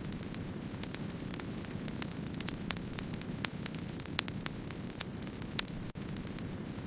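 Wood fire burning with a steady low rumble and irregular sharp crackles and pops, a few of them louder than the rest. The sound drops out for an instant about six seconds in.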